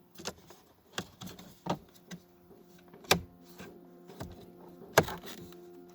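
Several sharp, separate clicks and knocks of hard plastic parts being handled at a car's dashboard, the kind made when fitting a switch and trim. A faint steady hum joins about two seconds in.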